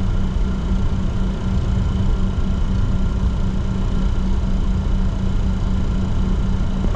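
Cockpit noise of a Bombardier Challenger 604 taxiing: a steady rumble and hiss with a constant low hum and fainter steady higher tones.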